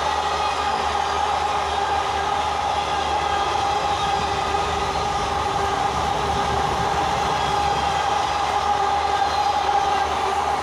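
Passenger train coaches running past at speed: a steady rush of wheels on rails with a faint clickety-clack and a steady ringing tone over it.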